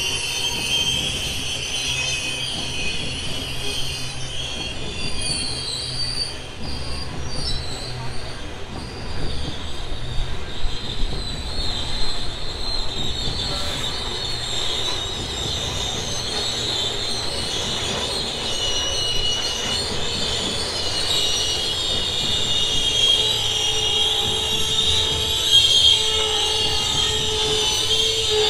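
Loaded coal train's hopper wagons rolling steadily past, their wheels giving a high, steady squeal over the rumble of the wagons. There are a few louder knocks from the wheels about a third of the way through.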